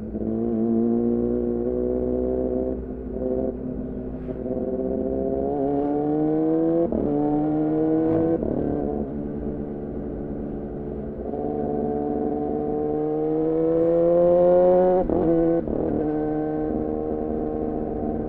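2014 Yamaha R6 inline-four running through an R9 titanium muffler on a Leovince header, pulling through the gears. The note climbs steadily in pitch, with several short breaks where it cuts and drops back at upshifts.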